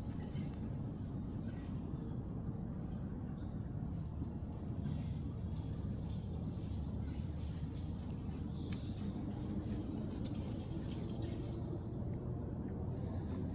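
Scattered songbird chirps and short whistled notes over a steady low rumble of outdoor background noise.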